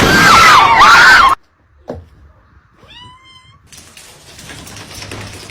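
A cat yowls loudly and wavers in pitch for just over a second, then cuts off abruptly. About three seconds in comes a single short meow.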